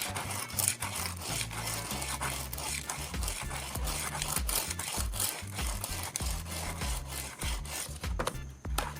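Knife blade being sharpened, rubbed and scraped against a sharpening surface in quick repeated strokes, over background music.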